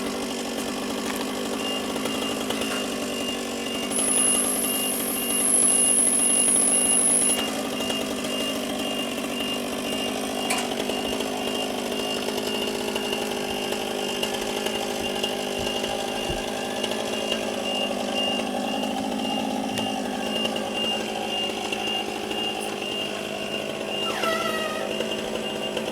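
Chainsaw engine running steadily, louder for a few seconds about four seconds in.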